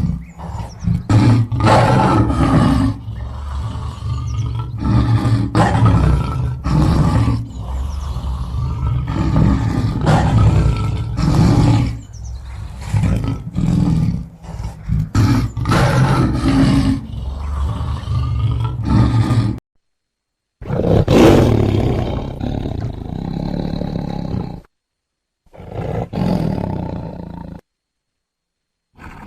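A large animal roaring and growling, loud and rough, in a long stretch and then a few shorter pieces that cut off abruptly.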